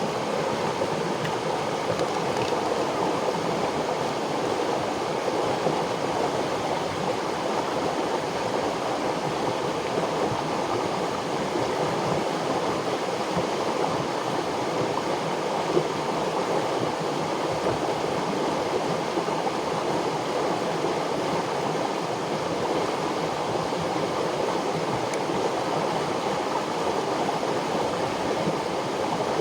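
River water flowing, a steady, even rush with no break.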